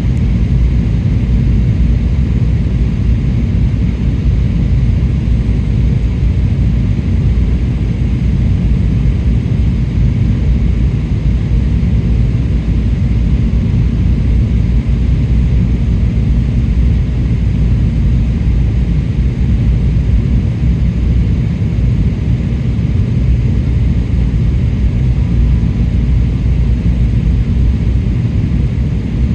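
Steady cabin rumble inside a jet airliner: engine and airflow noise, even and unbroken.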